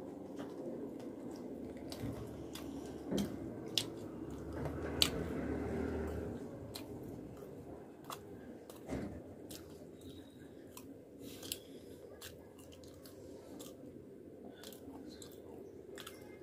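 Close-miked mouth sounds of a person chewing soft puri and fried potatoes, with many small sharp clicks and smacks of lips and tongue. The chewing grows louder for a couple of seconds around five seconds in.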